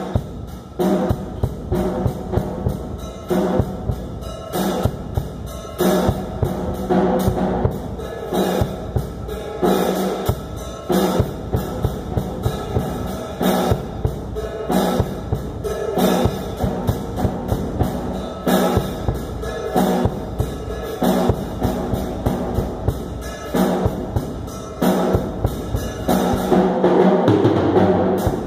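Drum kit playing a steady rhythm on bass drum and snare, over pitched instrumental music. It gets fuller and louder near the end.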